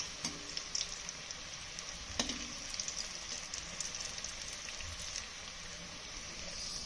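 Pea-paste fritters (matar pakodis) sizzling steadily as they fry in hot oil, with a few light clicks as they are turned over in the pan.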